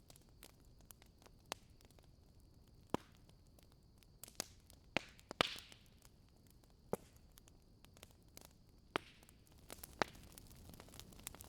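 Wood burning in a fireplace, crackling: scattered sharp pops over a faint hiss, with a cluster of louder pops about five seconds in.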